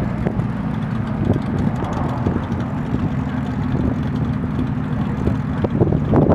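Car engines idling with a steady low rumble, without revving, and a few brief sharper sounds on top.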